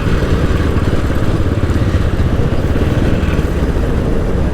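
A motorcycle engine running steadily while under way.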